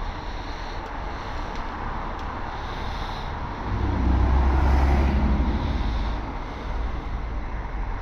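Steady road noise, with a motor vehicle's engine passing close by, louder for about two seconds near the middle.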